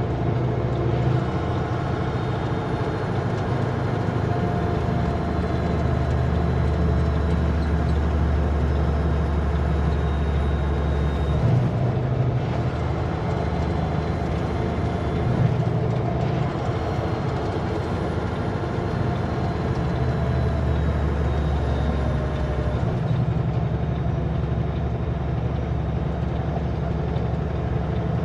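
Kenworth W900L semi truck's diesel engine running steadily with a loaded trailer on a slow mountain descent. Its deep low drone drops away about 11 seconds in, comes back a few seconds later, and drops again near the end.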